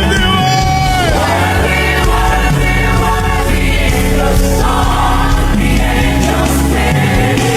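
Gospel worship music: a choir or congregation singing a slow, sustained line over a steady band accompaniment.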